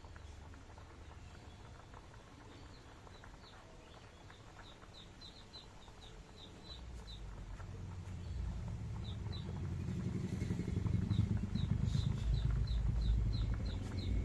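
Short high chirps from a small bird, repeating a few times a second, while a low rumble builds over the second half and becomes the loudest sound near the end.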